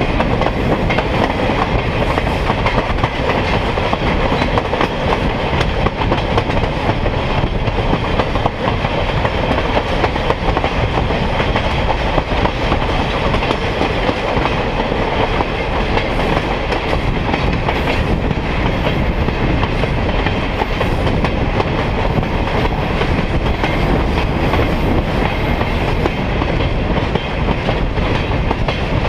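Steady rumble and rattle of a train car rolling along the track, heard from aboard the moving train.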